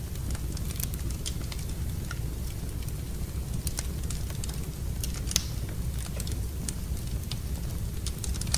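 Wood fire crackling in a fireplace: scattered sharp pops over a steady low rumble, with one louder pop about five seconds in.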